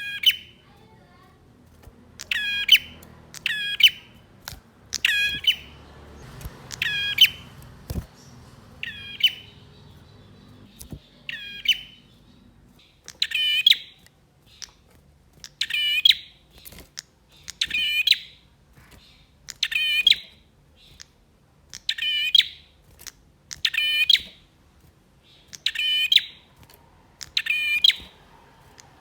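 Male prinia (prenjak) calling loudly. Short bursts of rapid, sharp notes repeat about every two seconds.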